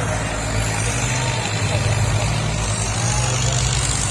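Tractor diesel engine running under heavy load, a steady low drone that grows a little louder around the middle, as it drags a set of discs (taviyan) in a pulling contest.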